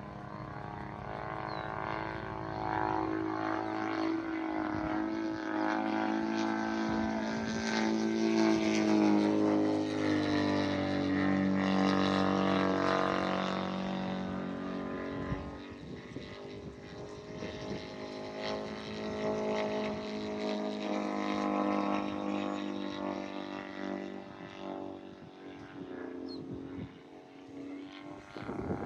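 RC model airplane's engine and propeller droning in flight, its pitch and loudness rising and falling as it flies past, loudest about eight to fourteen seconds in and swelling again about twenty seconds in.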